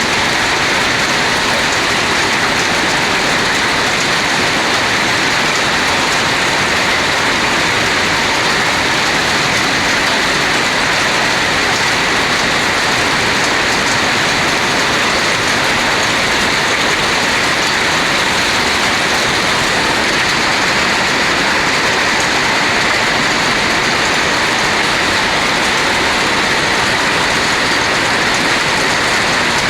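Heavy rain falling, a loud steady hiss with no breaks.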